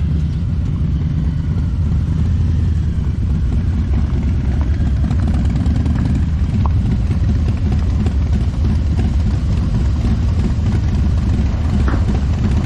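V-twin motorcycle engine running steadily, a loud low rumble.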